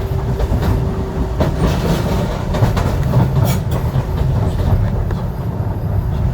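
Docklands Light Railway train running on its track, heard from inside the front of the car: a steady low rumble with scattered wheel clicks over rail joints. A steady hum sounds under it and stops about a second and a half in.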